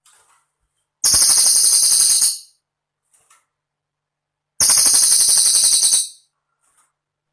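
Cililin bird singing: two high-pitched, rapid rattling trills, each about a second and a half long, with a pause of about two seconds between them.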